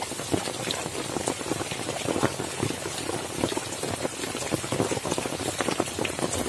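Heavy rain falling steadily, with many separate drops ticking.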